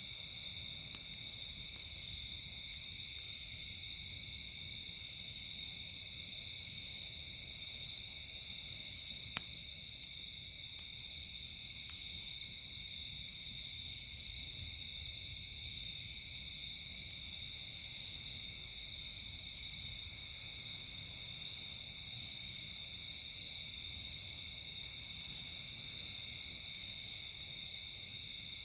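Chorus of crickets and other night insects trilling steadily at a high pitch, with a higher-pitched insect call that comes in stretches of about two seconds every six seconds or so. A few faint ticks and one sharp pop about nine seconds in come from the campfire.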